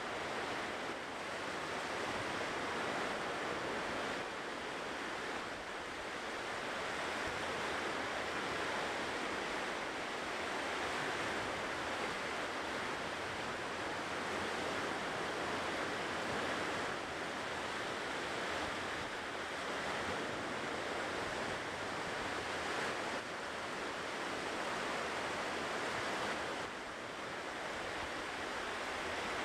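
Ocean surf breaking and washing onto the shore in a continuous, steady hiss that eases and swells slightly now and then.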